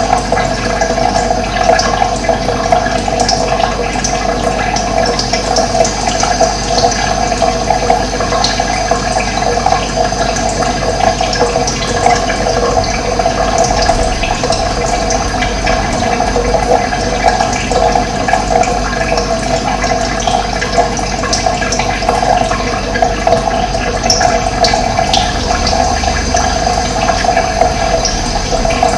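Running water flowing in a steady, loud rush, with a few brief high bird chirps over it, a couple of them near the end.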